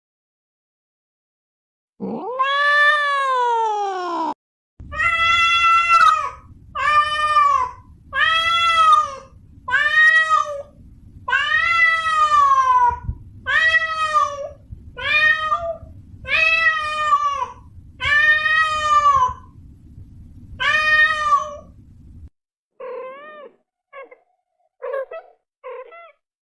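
Domestic cat meowing. One long meow comes first, then a run of about a dozen meows roughly one a second over a low background rumble, then several short, quieter mews near the end.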